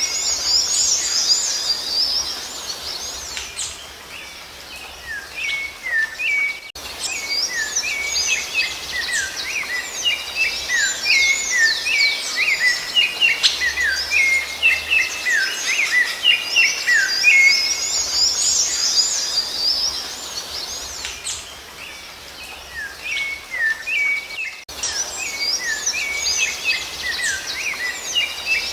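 Songbirds singing in a dense chorus of short, quick chirps and whistled notes, many overlapping and sliding up and down in pitch. The sound cuts off sharply for an instant about seven seconds in and again near the end, then carries straight on.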